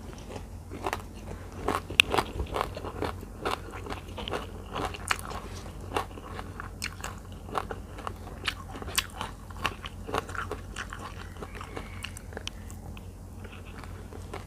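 Close-miked mouth sounds of someone eating a spicy tilapia larb meal: wet chewing with many irregular crunches and clicks, thinning out near the end.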